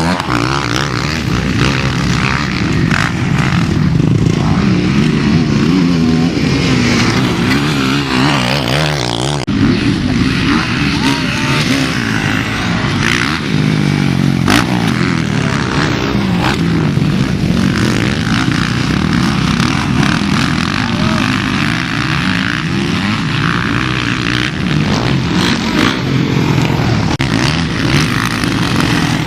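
Several motocross bikes racing on a dirt track, their engines revving up and down as they accelerate and shift.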